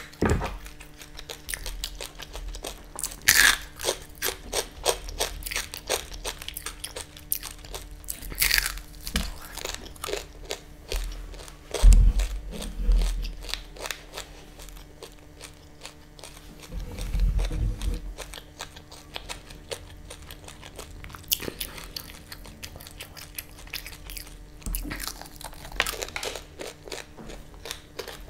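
Crispy fried chicken breading being bitten and chewed close to the microphone: a steady run of small crisp crunches, with a few louder bites and a couple of dull low thuds.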